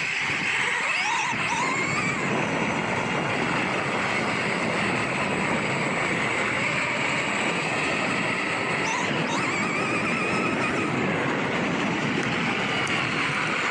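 1/4-scale Promoto-MX electric RC motorcycle running over rough ground under a steady rush of noise, its motor whine rising and falling as it speeds up about a second in and again about two-thirds of the way through.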